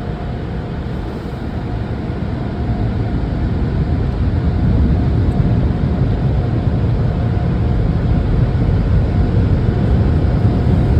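Steady noise of automatic tunnel car wash machinery heard from inside the car, growing louder over the first few seconds and then holding.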